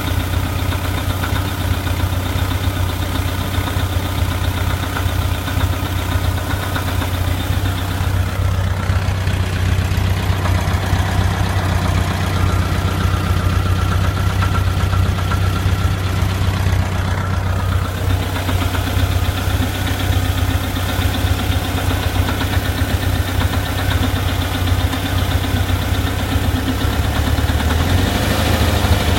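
Warm 2.0-litre fuel-injected VW Type 4 air-cooled flat-four engine idling steadily, with a random knocking that comes only at warm idle. The owner thinks it could be a loose cam gear or a hydraulic lifter loose in its bore in the engine case.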